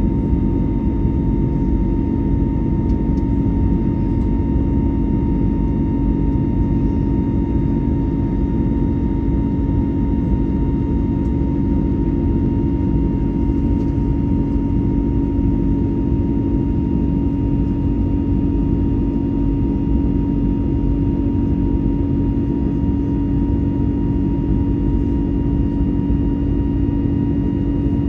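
Steady cabin noise inside an Airbus A321neo in flight: a constant rush of airflow and engine noise with a low steady hum and a fainter higher tone, unchanging throughout.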